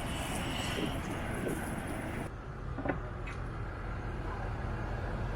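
Steady low hum of an idling vehicle engine, with the hiss of a water spray that cuts off suddenly a little over two seconds in, followed by two light clicks.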